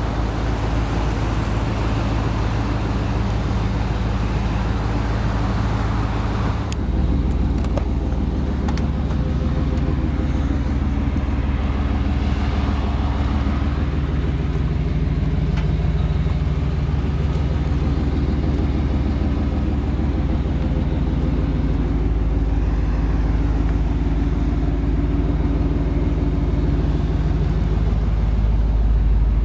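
Vehicle engine running steadily. About seven seconds in there is a click, and the engine note settles lower and heavier.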